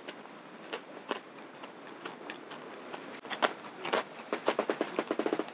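Crunching bites and chewing of the hardened caramelised sugar crust on a torched banana (banana brûlée). A few scattered crackles give way about three seconds in to a dense run of crisp crunches, then rapid, even chewing near the end.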